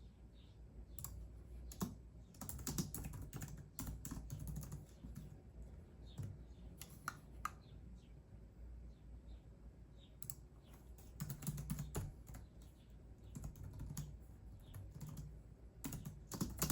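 Computer keyboard typing in bursts of rapid key clicks, with a few slower, isolated keystrokes in the middle.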